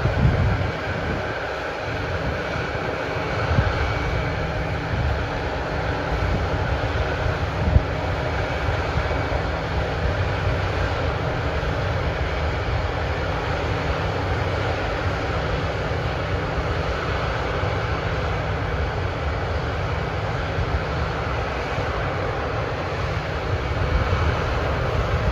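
Large diesel harvest machinery, combine harvesters and tracked tractors with grain carts, running steadily with a deep rumble. A short knock stands out about eight seconds in.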